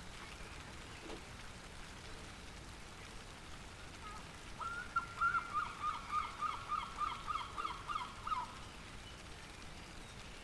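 Steady light rain falling. About halfway through, a bird calls a quick run of about fourteen short notes over some four seconds, louder than the rain.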